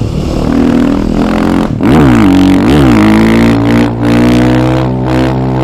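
KTM 530 EXC single-cylinder four-stroke engine running under way on the move. Its revs swing sharply twice, about two and three seconds in, then hold steady.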